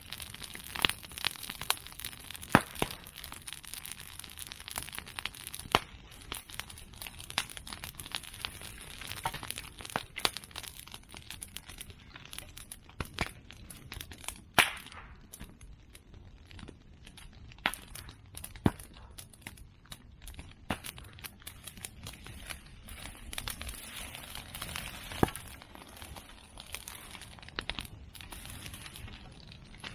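A large open fire of cut medake bamboo and chestnut prunings crackling continuously, with sharp, louder pops every few seconds as bamboo culms burst in the heat.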